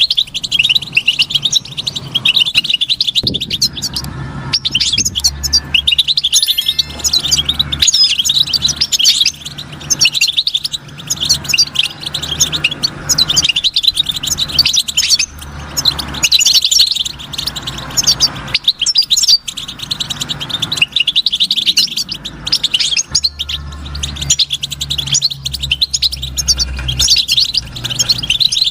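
European goldfinch singing: rapid, twittering chirps in long bouts broken by brief pauses. A low steady hum lies underneath at times.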